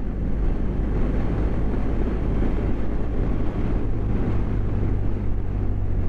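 BMW GS motorcycle running at a steady cruise, with a constant rush of wind over the microphone.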